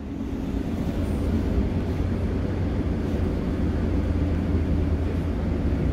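Passenger train running, heard from inside the carriage: a steady low rumble with a constant hum, growing a little louder over the first second.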